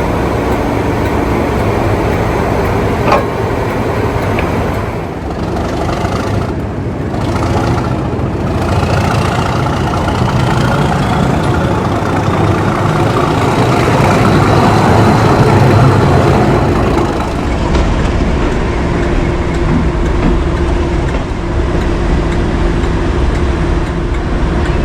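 English Electric V12 diesel engine of Class 37 locomotive D6700 running under power, loud and steady. A high whistle rises slowly in pitch about a third of the way in, and the engine grows louder before easing near the end.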